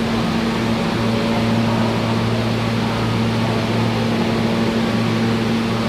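Steady electrical and air-conditioning hum with two constant low tones over a noisy hiss, typical of a subway train standing at the platform. There is no rise or fall of a train moving.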